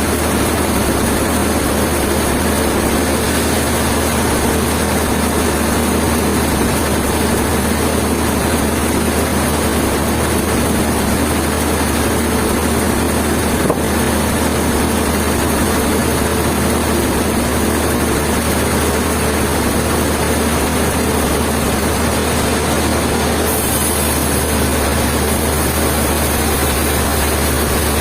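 Heavy machinery engine running steadily, with one brief tick about halfway through.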